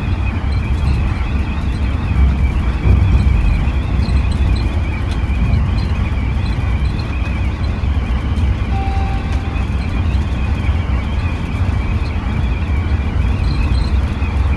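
Scania diesel engine running under way, a steady low rumble with road and cabin noise.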